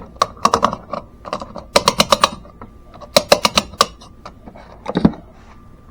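Three quick flurries of sharp clicks and clatter, with a duller thump about five seconds in.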